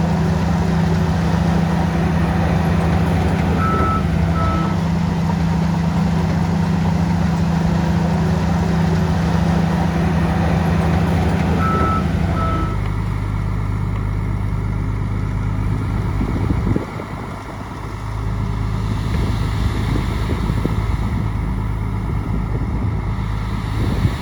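Heavy diesel engine of earthmoving machinery running steadily under load, with short reversing-alarm beeps in two pairs in the first half. About halfway through, the engine sound drops to a lower, quieter running.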